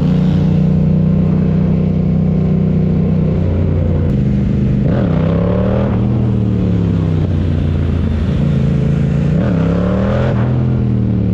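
Motorcycle engine running steadily. Its pitch dips sharply and climbs back twice, about five and nine seconds in, as the throttle is worked.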